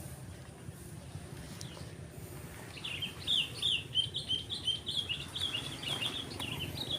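A small bird singing a quick run of high chirps, about five a second, starting a little under three seconds in, over a steady low rumble.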